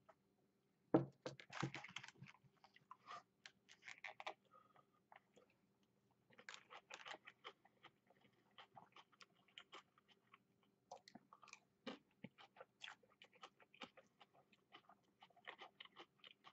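Faint close-up chewing of a mouthful of Chinese takeout chicken with peppers and onions: soft irregular crunches and small wet clicks, with a louder knock about a second in.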